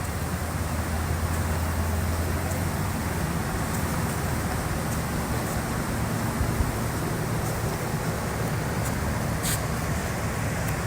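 A deck boat's engine running steadily with a low hum under an even rush of noise. There is one brief click about nine and a half seconds in.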